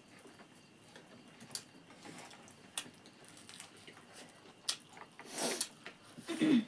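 Close eating sounds of people chewing rice and chicken curry, with scattered lip smacks and small mouth clicks. It swells to a louder noisy stretch about five and a half seconds in, and a brief sound of the voice comes near the end.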